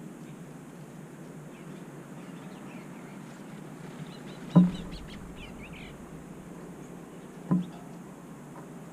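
Small birds giving short, faint high chirps, most of them between about three and six seconds in, over a steady low hum. Two sharp knocks about three seconds apart are the loudest sounds.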